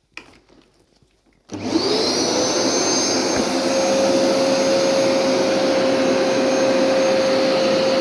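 Hoover SmartWash carpet washer switched on about a second and a half in: its motor spins up with a rising whine, then runs steadily.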